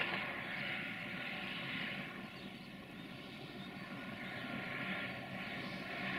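Distant freight train hauled by an electric locomotive, running with a steady rumble and a rushing noise that swells louder twice, near the start and near the end.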